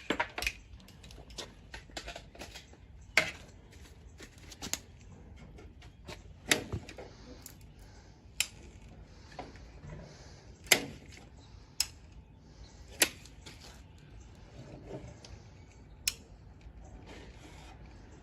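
Irregular sharp clicks and knocks, about one every second or two, from hand work on the end cap of a seamless gutter as it is tapped closed and sealed with silicone.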